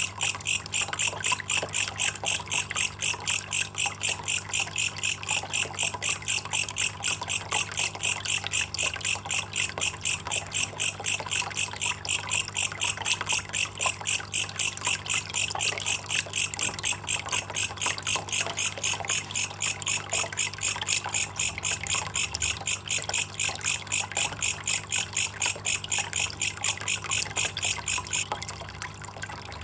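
Belalang kecek, a katydid, calling in an even rhythm of about three to four sharp chirps a second, stopping near the end. A steady low hum runs underneath.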